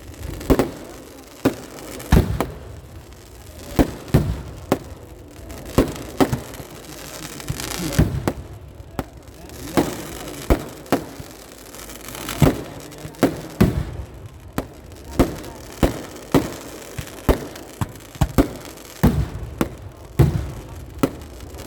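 Temple festival fireworks (vedikkettu): an irregular volley of loud explosions, one or two bangs a second, each followed by a short echo.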